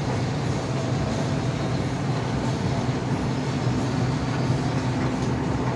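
Industrial machine running steadily: a continuous low hum under an even rushing, air-like noise.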